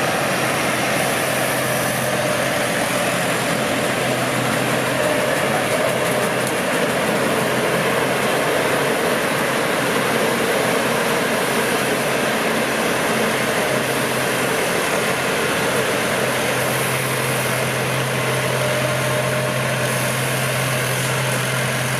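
Large rice combine harvester with a Hino diesel engine running steadily while harvesting in the field, a continuous engine drone that holds a constant level.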